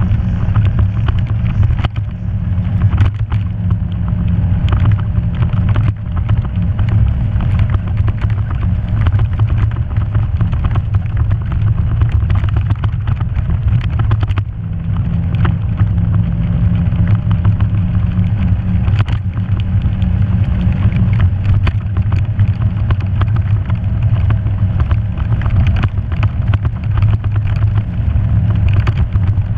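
Off-road vehicle engine running steadily at a low drone while driving a rough trail, with frequent knocks and rattles. The engine note dips briefly a few times, about two, six and fourteen seconds in.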